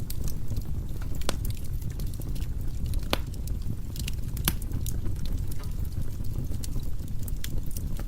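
Firewood burning in a fireplace: a steady low rumble of the fire with sharp crackles and pops from the logs scattered throughout, the loudest pops a little after three seconds and about four and a half seconds in.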